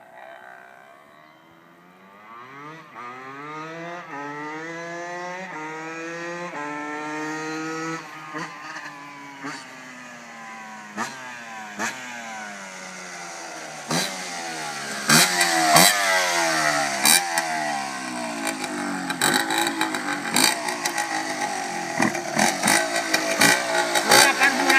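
125 cc two-stroke pit bike engine accelerating through several gears, its pitch climbing and dropping back at each shift, then falling as the revs come down. In the second half it runs louder, with many sharp cracks over the engine sound.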